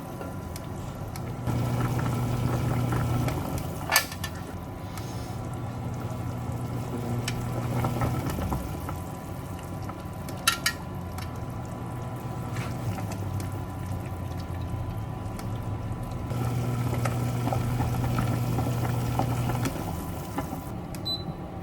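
Galbi sauce simmering and bubbling in a pan, over a low electric hum that comes and goes in stretches of a few seconds. Two sharp clicks sound, about four and ten seconds in.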